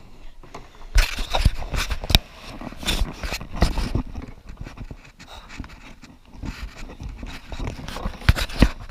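A run of close, sharp knocks and scrapes with rustling between, the loudest in a cluster about a second in and again near the end.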